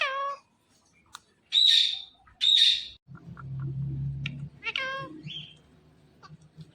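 Indian ringneck parakeet calling: a falling whistle-like call, then two loud shrill squawks in quick succession, then another falling call. A low steady hum sits under the later part for about a second and a half.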